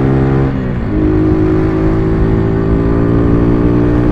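Motorcycle engine running at steady throttle while riding. About half a second in, the engine note dips and falls briefly, then picks up again and holds steady.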